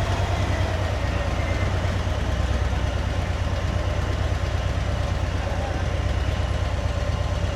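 Motorcycle engine running steadily at low revs, creeping in slow traffic.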